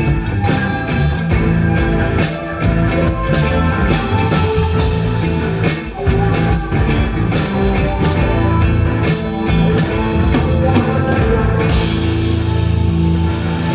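Live rock band playing an instrumental passage, with drum kit and guitar over bass. About twelve seconds in the drums and cymbals drop out, leaving held guitar and bass notes ringing.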